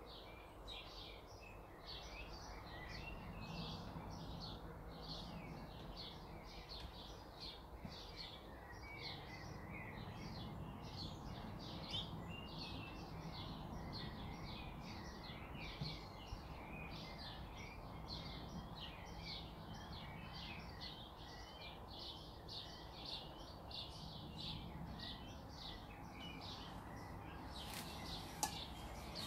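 A bird chirping over and over, short high chirps about two or three a second, over a low steady hum, with a couple of sharp clicks near the end.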